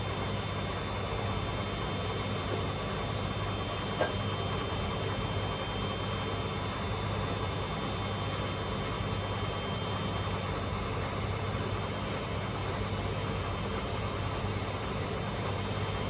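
Two Hotpoint Aquarius washing machines, a WMA37 and a WMA48, spinning together, making a steady whirring hum with a thin high whine. There is a single small click about four seconds in.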